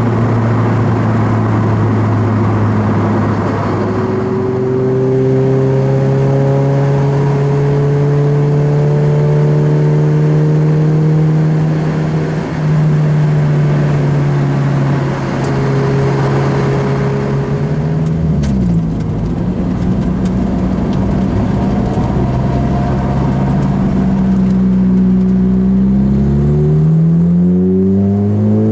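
Lotus Elise 111R's 1.8-litre four-cylinder engine heard from inside the car, running at steady road speed with road noise. The revs creep up, dip about two-thirds of the way through, then climb steeply near the end as it accelerates.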